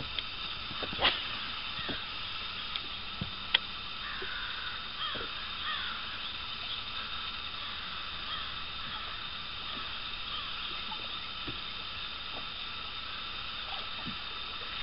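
Birds calling in a run of short falling calls a few seconds in, over a steady outdoor background with a faint high hum. Near the start there are a few sharp clicks from the fishing rod and reel being cast and worked.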